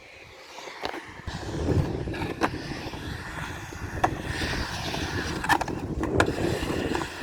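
Skateboard rolling on concrete, its wheels rumbling, with several sharp clacks of the board and trucks.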